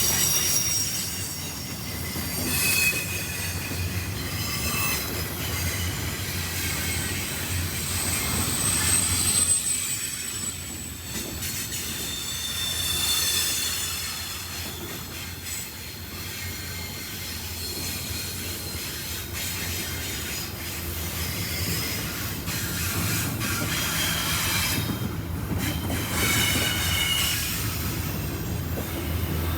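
Freight train cars rolling past over a steady low rumble, their steel wheels giving off high, wavering squeals that come and go.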